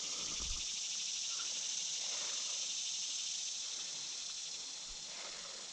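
Steady high-pitched trilling of insects, fading slightly toward the end, with a faint low thump about half a second in.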